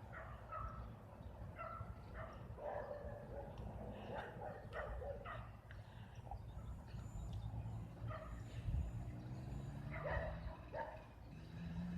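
A dog barking repeatedly in short barks over a steady low rumble, with a pitched hum rising near the end.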